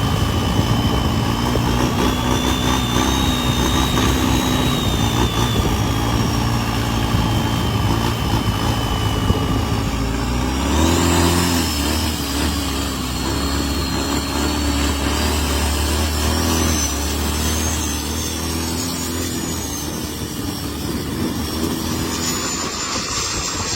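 Turbocharged fishing-boat engines running, with a high wavering turbo whistle over the engine's steady note; the engine sound changes about halfway through.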